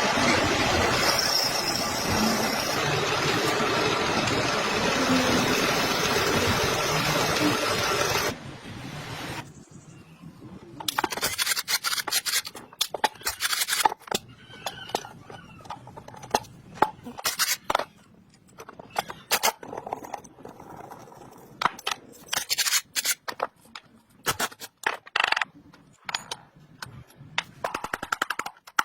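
A power tool runs steadily and loudly on a restoration job, then stops abruptly about eight seconds in. After that come scattered sharp clicks and knocks of hand work on metal parts.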